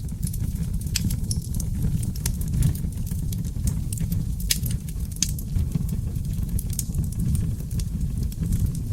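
Wood fire burning in a fireplace: irregular crackles and sharp pops over a steady low rumble of flames, with a few louder pops about a second in and again around the middle.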